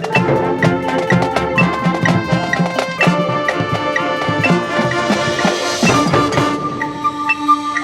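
Marching band playing a fast, rhythmic passage with drums and mallet percussion. A cymbal-like swell builds about five seconds in, then the band moves into held notes.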